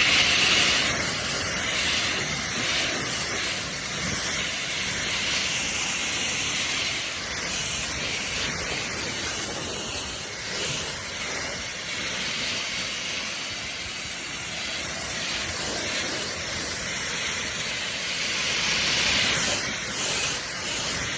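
Ryobi foam blaster on a garden hose spraying foam, a steady hiss of water and foam spray that swells a little near the end.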